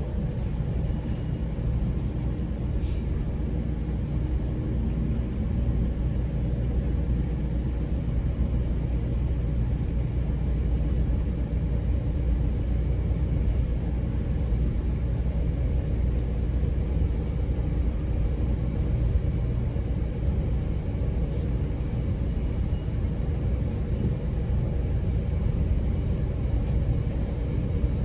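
GO Transit bi-level commuter train running between stations, heard from on board: a steady low rumble of wheels on the rails with a faint hum.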